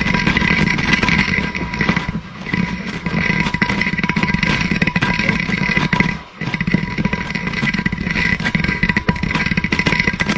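A GoPro rattling and scraping against the inside of a narrow pipe as it hangs on a string, a continuous grinding clatter of many small knocks, briefly dropping about six seconds in.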